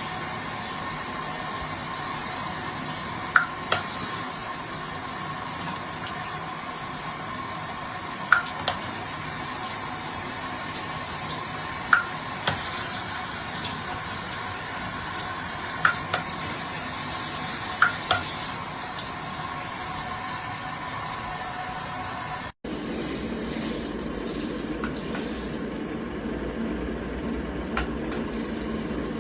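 Water spraying steadily from a handheld shower head, with a few short, sharp clicks. The spray changes to a lower, fuller rush after an abrupt cut about three quarters of the way through.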